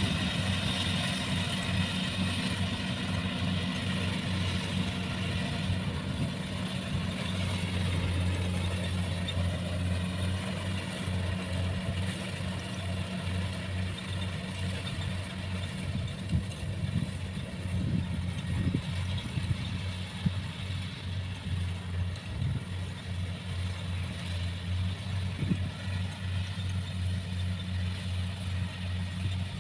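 Combine harvester engine running steadily with a deep, even hum. From about halfway through, scattered short knocks and rattles sound over it.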